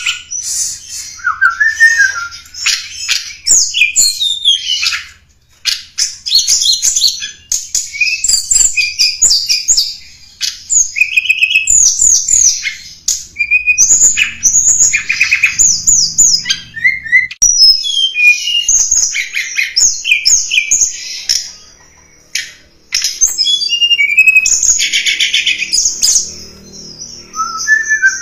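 Tledekan gunung song: rapid, high-pitched chirps, trills and sweeping notes delivered in busy phrases with short pauses between them. It is the bird's lure call.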